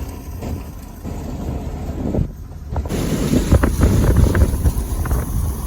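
Strong wind buffeting the microphone with a heavy, gusting rumble, which grows louder about three seconds in.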